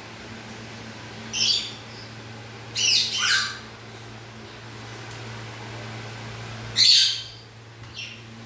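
Dogue de Bordeaux puppy giving short, high-pitched whimpering cries, four in all: one early, a double one about three seconds in, the loudest near seven seconds, and a brief faint one after it, over a steady low hum.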